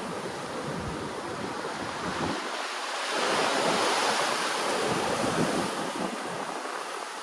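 Ocean waves washing in, a steady rush of surf that swells about three seconds in and then eases away.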